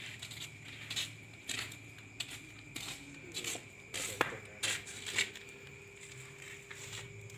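Irregular light clicks and clinks of utensils and dishes being handled, several close together and then sparser near the end, over a faint steady hum.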